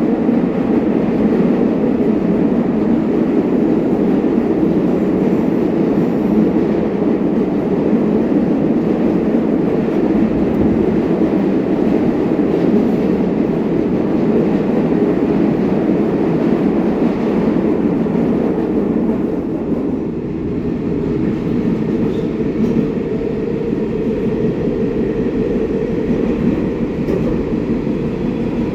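R188 subway train running on the 7 line, the steady noise of its wheels on the track, easing a little about twenty seconds in, when a faint steady whine comes in.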